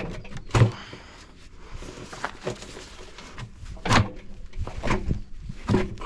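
Scattered knocks and clunks, about five, with a short scrape about a second in, as washing machine parts are handled and moved during the teardown.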